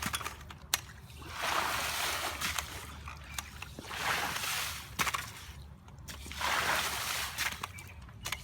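Water sloshing and swishing in slow repeated strokes, a swell about every two and a half seconds, as pooled water is pushed off a pool cover; a few light clicks between the strokes.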